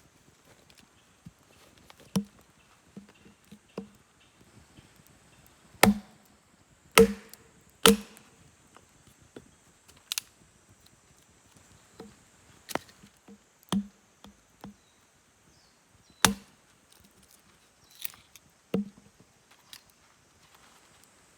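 Sharp knocks and chops on wood at irregular intervals, as when firewood is being cut or split at a campfire, a few strokes much louder than the rest.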